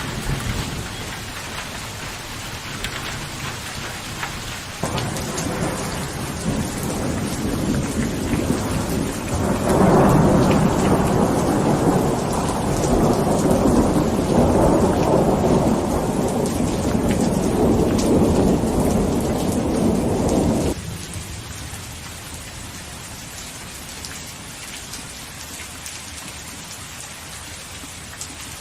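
Steady rain falling, with a long low roll of thunder that swells about a third of the way in and cuts off abruptly about two-thirds of the way through, leaving the rain alone and quieter.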